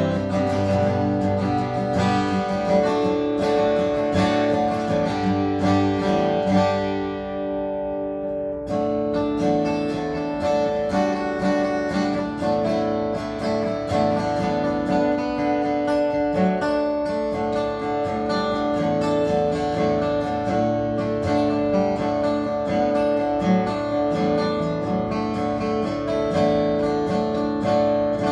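Seagull S6 acoustic guitar with a cedar top and cherry back and sides, played with continuous strummed and picked chords. About eight seconds in, a chord is left to ring and die away briefly before the playing picks up again.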